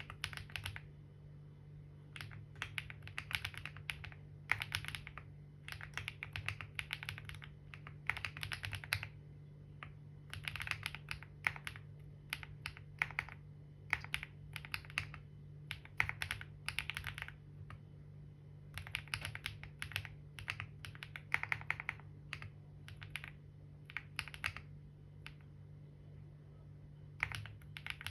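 Typing on a computer keyboard in quick runs of keystrokes lasting a second or two, broken by short pauses, over a steady low hum.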